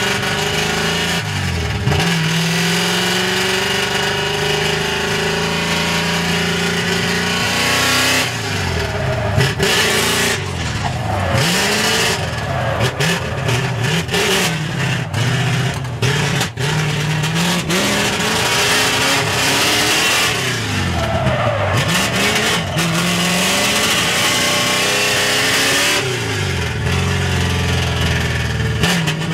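Drift car driven hard, its engine revving up and down with the pitch repeatedly dropping and climbing back, over continuous tyre squeal from the car sliding.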